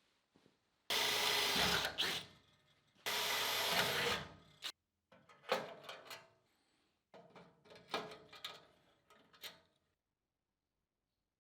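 A handheld power tool run in two short bursts of about a second each, each fading away after it stops, followed by several quieter, shorter bursts of the tool.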